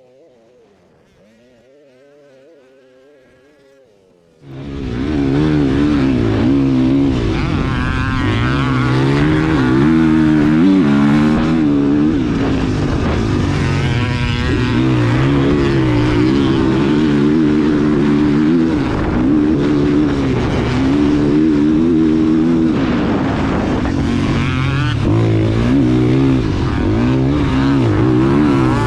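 Motocross dirt bike engine revving up and down repeatedly as it is ridden hard, loud and close. It is faint at first and comes in suddenly about four seconds in.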